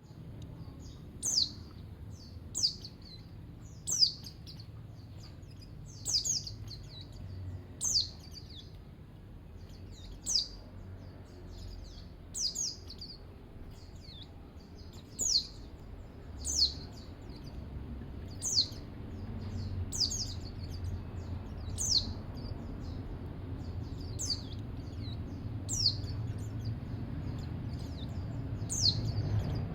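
Pleci dakun white-eye calling: a short, high chirp that slides downward, repeated about every one and a half to two seconds, over a steady low rumble.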